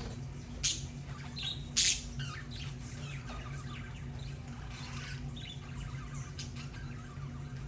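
Budgerigars chattering with short chirps, with two loud harsh squawks about one and two seconds in, over a steady low hum.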